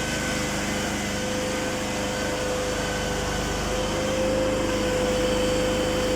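PRAMAC petrol generator running steadily, with its engine's even low pulse and a constant whine over it, a little louder about two-thirds of the way through.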